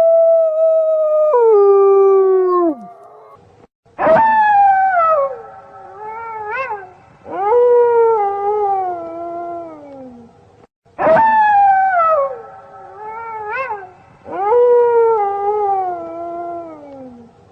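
Wolves howling: a long held howl that slides down and fades out within the first three seconds, then long howls that each start high and glide slowly down, with a short rising-and-falling note between them. The same run of howls plays twice over.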